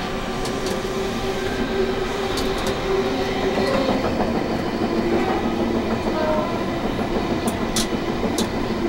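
Electric CityRail passenger train heard from inside the carriage as it runs along the line. A steady rumble carries a faint motor hum, with a few sharp clicks from the track.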